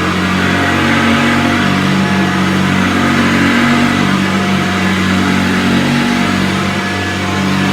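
Vintage Hoover Convertible U4005 upright vacuum cleaner running steadily: a loud motor hum under the rush of air.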